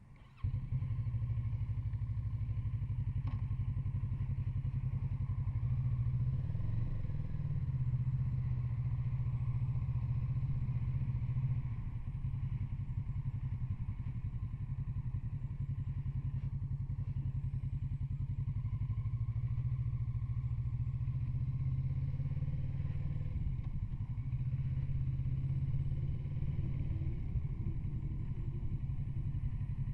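Kawasaki Z650RS's parallel-twin engine running steadily.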